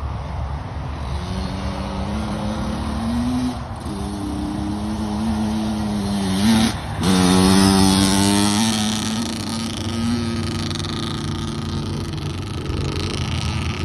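Kawasaki dirt bike engine pulling hard, its pitch climbing, then dropping back as it shifts up, about 4 and 7 seconds in, loudest just after the second shift, then easing off about 9 seconds in.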